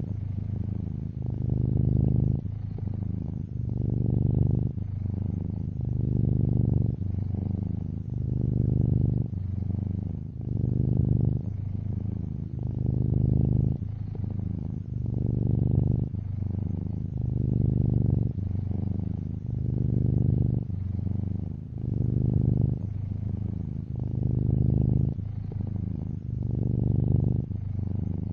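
Domestic cat purring steadily and close up, a low rumble that swells and eases with each breath, about every two seconds.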